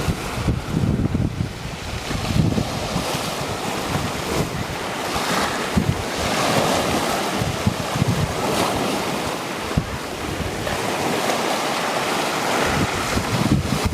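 Black Sea surf washing onto the shore, the waves swelling and ebbing, with wind buffeting the microphone.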